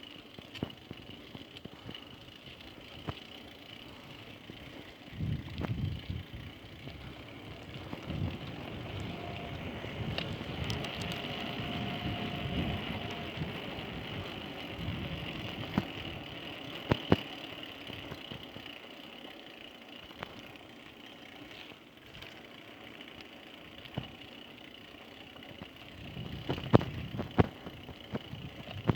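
Street traffic heard on a ride through the city: engines running and passing, with the rumble swelling and fading, and a few sharp knocks and rattles, most of them near the end.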